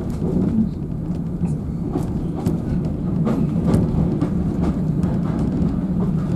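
Steam auto train running along the line, heard from inside the auto coach's driving compartment: a steady low rumble of wheels on rails with irregular clicks and knocks.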